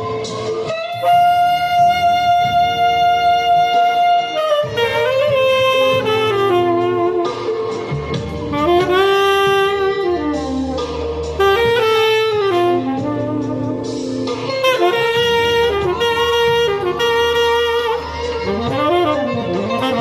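Tenor saxophone playing a jazz-blues solo over a live band. It holds one long high note about a second in, then plays phrases that bend and slide up and down in pitch.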